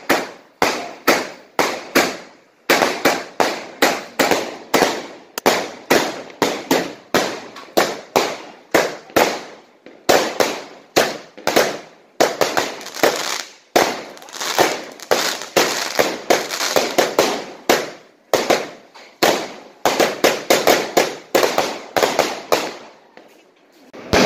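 Fireworks going off in rapid succession: loud sharp bangs several a second, each with an echoing tail, with a brief lull near the end.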